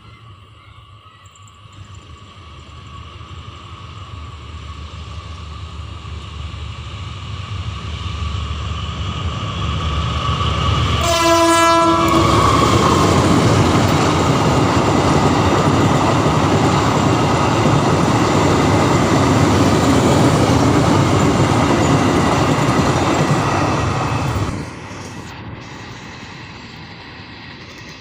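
Diesel locomotive-hauled train approaching and growing louder, then a short horn blast about eleven seconds in. The locomotive and its cars then pass close by with a loud, steady rumble of wheels on rail, which drops off sharply about twenty-four seconds in.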